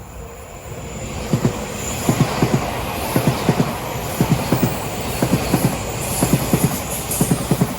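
Odakyu Line electric train passing close by, its wheels knocking over a rail joint in groups of two to four clacks about once a second, one group per bogie pair, over a steady running rumble.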